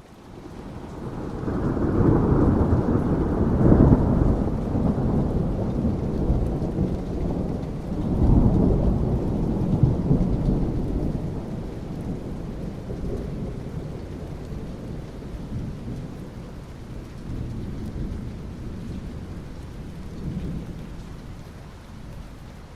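Thunder rumbling over steady rain. A deep roll swells in over the first two seconds and peaks, rolls again about eight seconds in, then slowly dies away, leaving the even hiss of rain.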